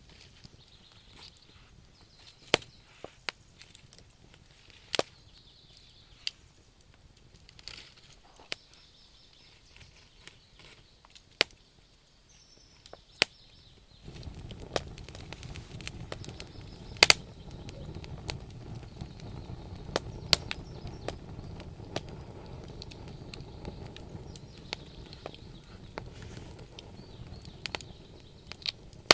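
Wood campfire crackling, with sharp pops and snaps of burning logs scattered irregularly throughout. About halfway a steady low rush comes in underneath the pops.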